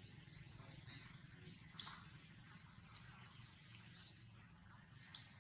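Short, high-pitched rising chirps from an animal, about five of them, roughly one a second, with one sharp click about three seconds in.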